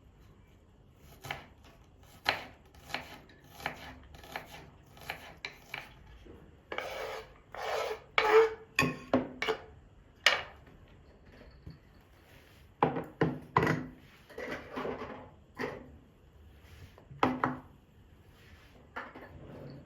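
Wood being knocked and scraped in kitchen work: a string of separate sharp strokes, then longer rubbing, scraping strokes about halfway through, then irregular bunches of strokes.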